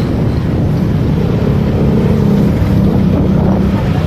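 Motorcycle engine running under way, with wind rushing over the microphone; the engine note grows stronger about a second and a half in.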